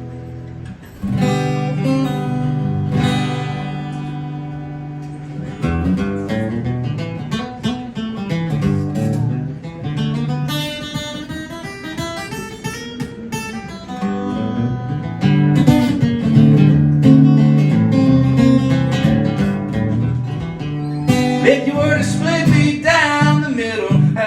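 Instrumental intro of a country song: acoustic guitar strumming, with a fuller accompaniment coming in about five seconds in.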